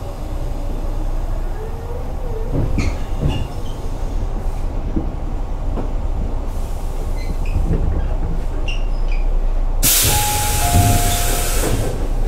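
Tobu 8000 series electric train running: a steady low rumble of wheels and motors with scattered clanks. About ten seconds in, a loud burst of air hissing lasts about two seconds.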